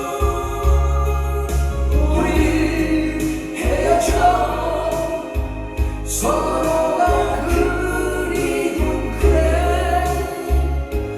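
Korean pop ballad recording: held, sustained singing over band accompaniment with a deep, steady bass, the notes changing every couple of seconds.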